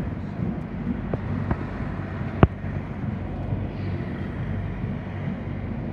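Container freight train rolling past, a steady low rumble from the wagons with a few sharp clicks, the loudest about two and a half seconds in.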